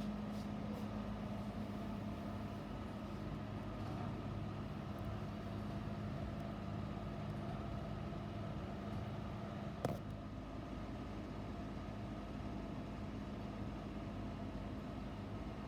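Steady mechanical hum and low rumble with a constant low tone, broken once by a sharp click about ten seconds in.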